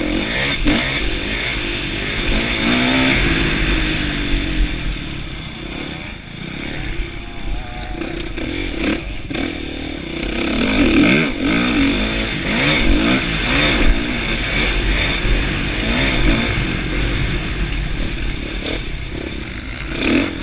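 2016 Kawasaki KX450F single-cylinder four-stroke motocross engine revving up and down over and over as the bike is ridden round the track, heard from on board.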